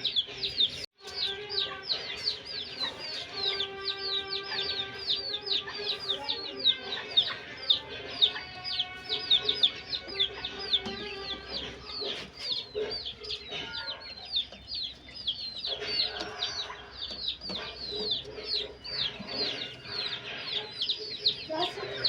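A flock of chickens calling: a constant chorus of short, high, falling peeps, several a second, with a brief break about a second in.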